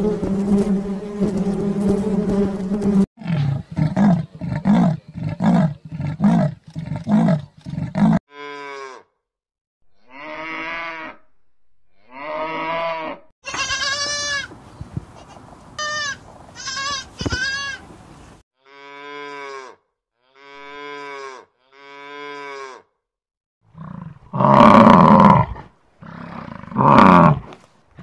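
A sequence of animal sounds: honeybees humming steadily at a hive, then about five seconds of short rhythmic pulsing calls, then a goat bleating in a string of separate wavering calls, and near the end two loud cattle moos.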